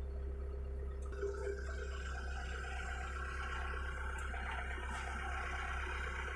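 Hitachi mini excavator running with a steady low engine hum; about a second in a higher, steady whine joins it, as from the hydraulics working under load.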